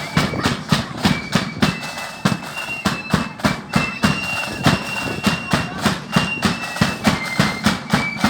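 Marching band playing: a high, shrill melody line over a steady, hard-hitting drumbeat of about three to four beats a second.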